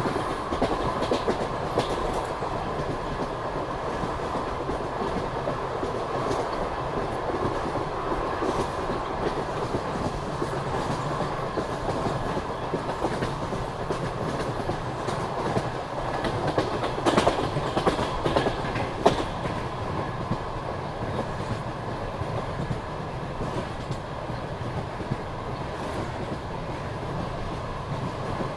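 Passenger train running along the line, with the steady rumble of wheels on rails and the clickety-clack of the wheels over rail joints. A few sharper knocks come a little past the middle.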